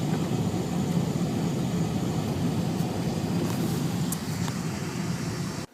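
Steady road and engine noise heard inside a moving car's cabin: a low, even hum with a wide hiss of tyres on the road.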